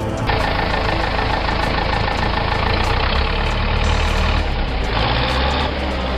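A heavy machine's engine running steadily, with a deep rumble.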